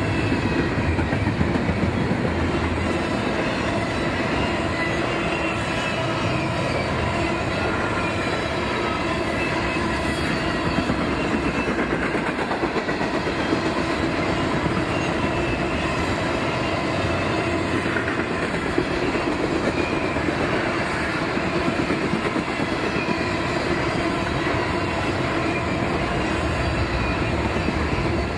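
Train rolling past on the rails: a steady rumble and clatter of wheels, with thin, high squealing tones from wheels on the rail.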